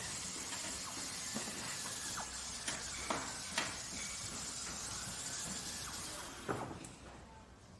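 Machinery in a workshop or factory running with a steady hiss, with a few sharp metallic knocks and clanks; it drops away near the end.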